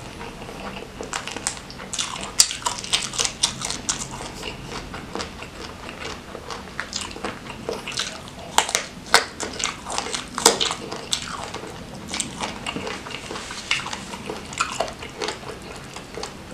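Close-miked eating sounds: wet chewing with many crisp crunches and clicks as raw vegetables, among them a small round green eggplant, and fried gourami are bitten and chewed.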